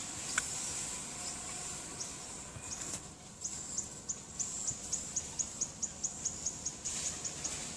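Forest ambience: a steady high-pitched insect drone, joined about three and a half seconds in by a fast, even run of short high chirps, about four a second, that stops near the end.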